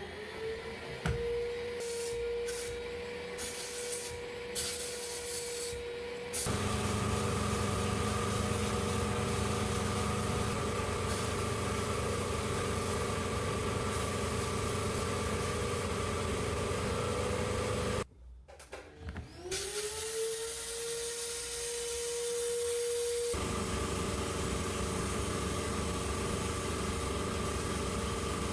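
Electric rotary power tool spinning up to a steady whine, then going louder and rougher as it works against the rusty cast iron. About 18 seconds in it stops briefly, spins up again and goes back to working the metal.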